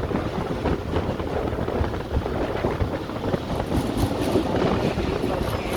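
Tezgam Express passenger train running on the track into a station: a steady, loud rumble.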